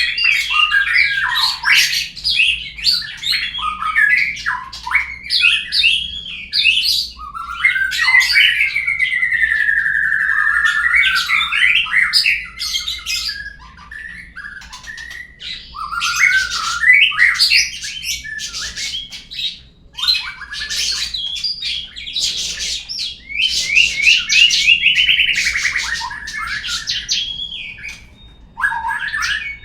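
Murai (Copsychus) song used as a lure recording to set other birds singing: a long, nearly unbroken run of varied whistles, rapid trills and harsh scratchy notes, with a few longer held whistled phrases.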